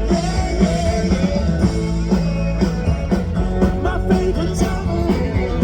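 Live rock band playing a song with a singer over a steady drum beat and bass, amplified for the crowd from the Holiday Train's stage car.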